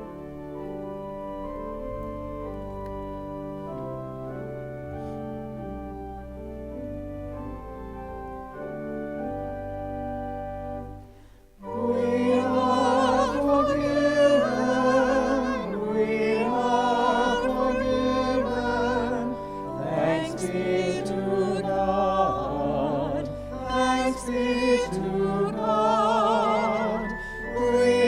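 Organ playing held chords for about eleven seconds, then a short break. Singing with strong vibrato comes in over accompaniment and is louder than the organ passage.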